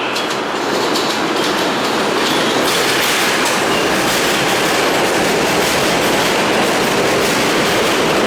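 R160 subway train running into the station, its wheels clattering over the rail joints; the noise grows about a second in and then holds steady.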